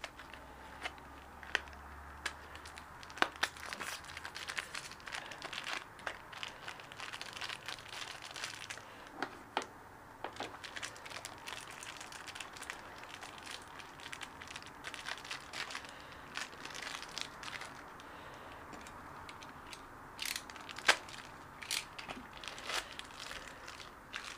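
Crinkling and rustling of packaging around new 6004 ball bearings as they are handled and unwrapped, with scattered small clicks and taps and a couple of sharper clicks.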